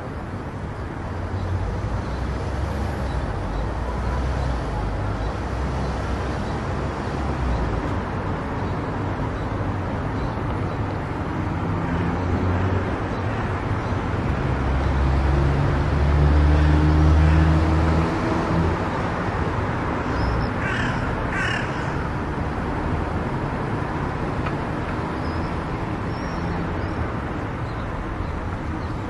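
Car driving on an expressway: steady tyre and wind noise over a low rumble, which swells for a couple of seconds just past halfway. Two short, high calls cut through about three-quarters of the way in.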